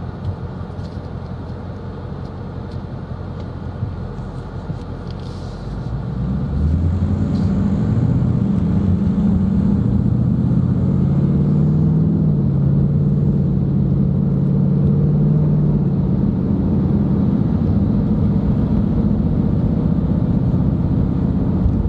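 Car driving, heard from inside the cabin: a steady drone of engine and road noise. About six seconds in it grows louder, and a deeper engine note climbs a little, then holds steady.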